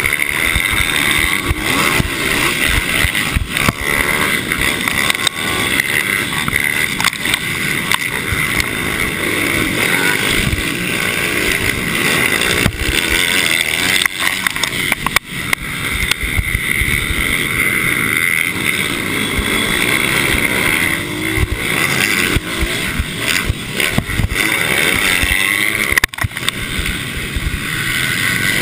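Mini racing motorcycle engines running hard throughout, their pitch wavering up and down as the throttle is opened and closed, over a steady high whine.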